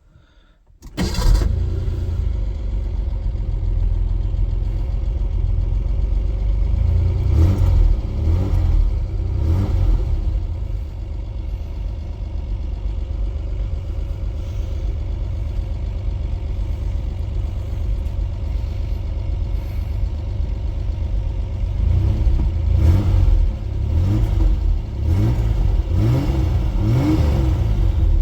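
1985 Ford Ranger's 2.8 V6 starting warm: it catches almost at once about a second in and settles into a steady run. Its speed rises and falls a few times around the middle and again near the end, running steadier in between.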